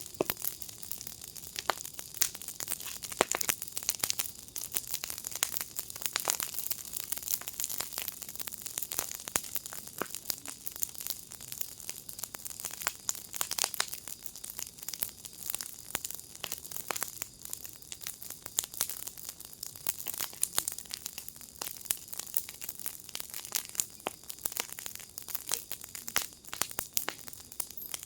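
Wood fire in a firepit crackling steadily, with dense irregular pops and snaps over a soft hiss.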